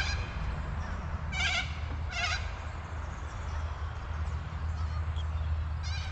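Several short, harsh, drawn-out animal calls, most likely birds, two close together about a second and a half in and another near the end, over a steady low rumble.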